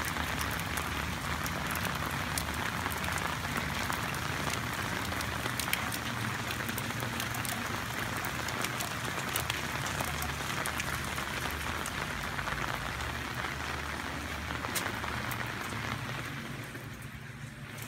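Steady rain falling on wet pavement and garden soil, with individual drops ticking close by. Near the end the rain turns quieter, heard from just inside a doorway.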